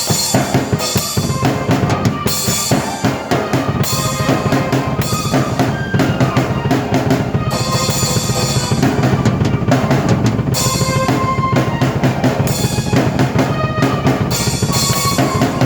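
A drum kit and a keyboard played together by one performer: a steady driving beat on bass drum and snare with rimshots, and keyboard chords and melody over it.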